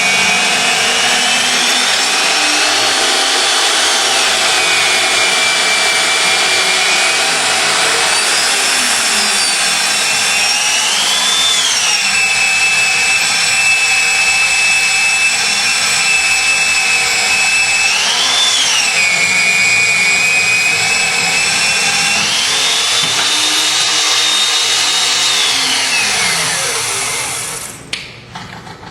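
Portable magnetic-base drilling machine's electric motor running loud and steady while drilling, its whine rising in pitch several times as the load eases and dropping back. Near the end it winds down and stops.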